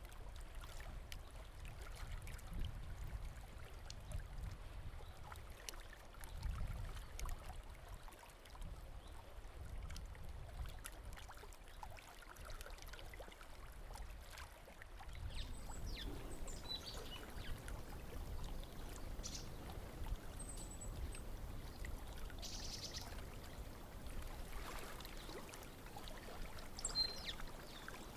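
Faint steady rush of running water, like a stream, with short high bird chirps scattered through the second half.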